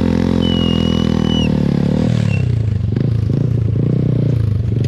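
Motorcycle engine running steadily, its note changing and turning uneven about two seconds in. A thin high whistle sounds for about a second near the start.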